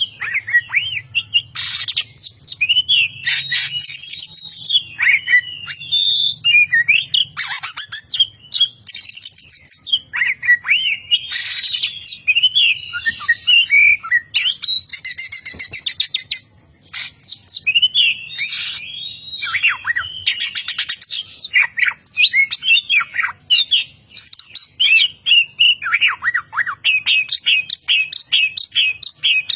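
Oriental magpie-robin (kacer) singing a long, loud, fast-changing song of whistles, chirps and harsh rasping notes, mixing in mimicked lovebird chatter. Near the end comes a quick run of repeated notes.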